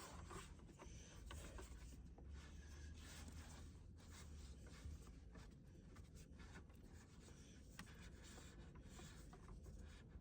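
Near silence with faint rubbing and scratching and many small light clicks: close-up handling work on plumbing parts, over a low steady hum.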